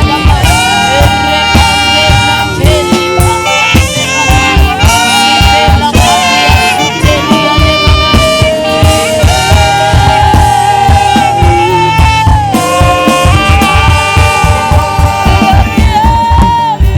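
Saxophone playing a melody of held and sliding notes over a band's steady drum beat and bass.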